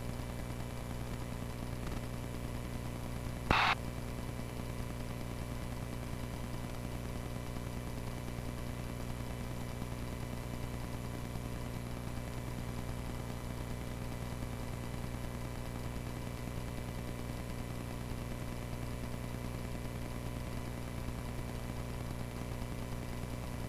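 Cessna 140A's light-aircraft piston engine droning steadily in cruise, heard through the cockpit intercom and radio feed. A brief burst of radio static comes about three and a half seconds in.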